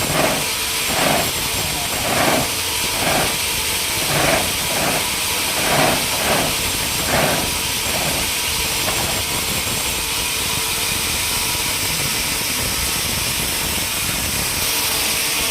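Steady hissing machinery noise, with a run of rhythmic pulses about once a second over the first half that then gives way to an even hiss.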